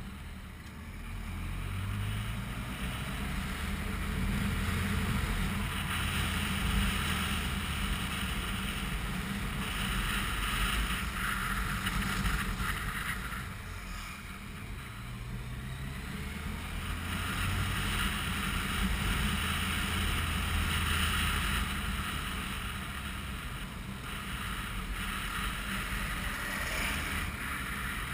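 Motorcycle running on the road, its engine note rising and falling with the throttle under a rush of wind noise on the microphone. The wind swells and eases several times as speed changes.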